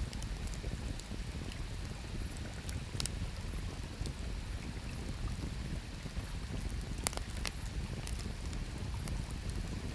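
Wood fire crackling with scattered sharp pops, the loudest about seven seconds in, over a steady low rush of flowing river water.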